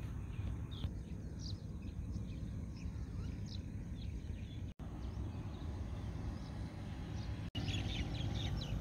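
Outdoor rural ambience: scattered short bird chirps over a steady low rumble. The chirps come thicker near the end, and the sound drops out for an instant twice.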